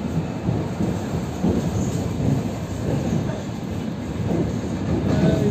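Suburban electric commuter train running at speed, heard from inside the carriage: a steady rumble of the wheels on the rails with irregular knocks.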